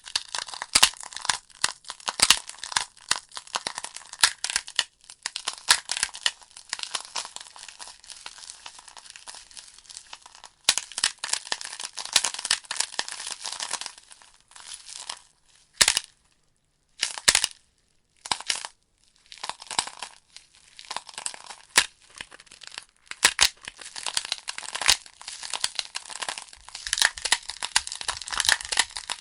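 Burning logs in a wood fire, crackling: many sharp pops and snaps over a soft hiss. A little past halfway the crackle thins to a few isolated snaps with near silence between them, then it picks up again.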